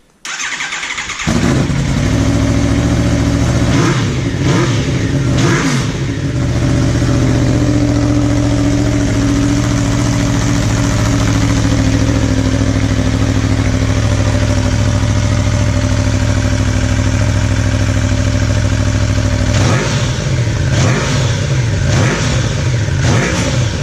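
2012 Aprilia Tuono V4 engine through a short Black Widow aftermarket exhaust with its baffle fitted. It is started, cranking for about a second before it catches, then idles. There are two throttle blips about four and five and a half seconds in, and a run of quick revs near the end. Very loud and throaty.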